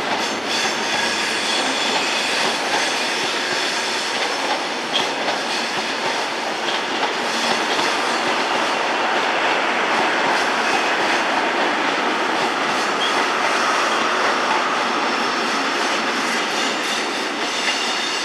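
A train moving on the rails: steady wheel-on-rail noise with a few sharp clicks and a faint high squeal from the wheels.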